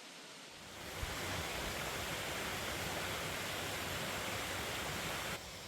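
Waterfall's falling water, a steady rushing noise that sets in about a second in and cuts off sharply near the end.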